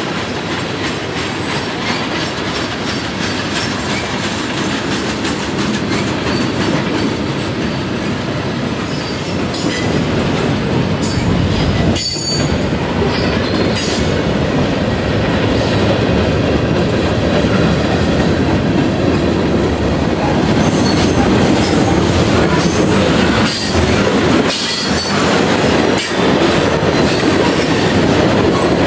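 Freight cars of a long mixed freight train rolling past close by: a steady rumble of steel wheels on rail, with faint high wheel squeals now and then.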